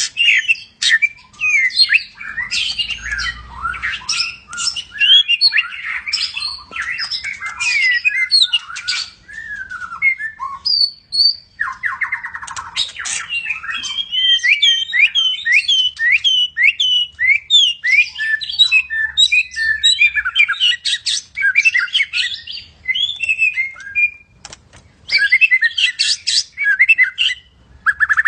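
White-rumped shama (murai batu, Medan type) singing a long, varied song of rich whistles, quick chattering notes and a harsh buzzy rattle about halfway through, with only brief pauses.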